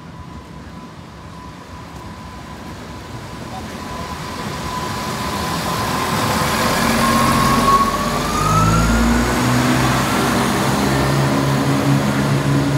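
Class 170 Turbostar diesel multiple unit approaching and passing at low speed, growing louder as it nears: the rumble of wheels on rail and the note of its underfloor diesel engines. A thin steady whine glides up in pitch about seven seconds in.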